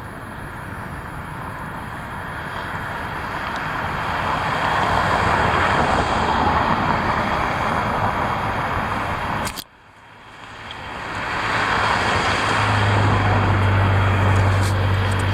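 Heavy rushing wind, a loud steady roar of air that swells, cuts out suddenly about ten seconds in, then builds back up. A steady low hum joins it in the last few seconds.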